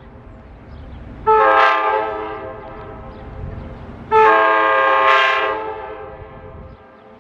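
SEPTA regional rail train horn sounding two blasts, a short one about a second in and a longer one about four seconds in that fades away, over the low rumble of the train.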